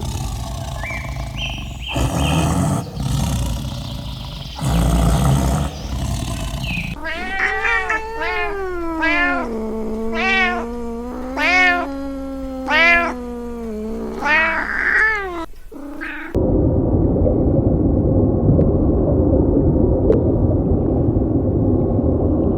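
A cat meowing over and over, about eight arching calls in quick succession in the middle of the stretch. Before the calls there is unpitched noise, and after them a steady rough noise runs on to the end.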